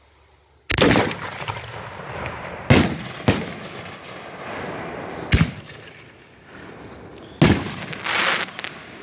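Firecracker blasts: a sudden loud bang under a second in, then several more sharp bangs over the next seven seconds, with a rough hiss between them.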